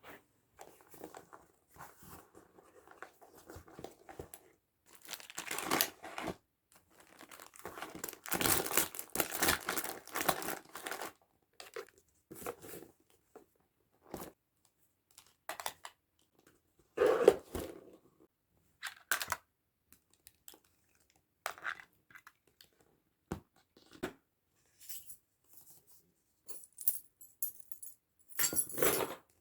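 Handling noises in a small room: irregular rustling and crinkling, like paper or plastic being crumpled or torn, with a few separate knocks in between and a crisp burst of rustling near the end.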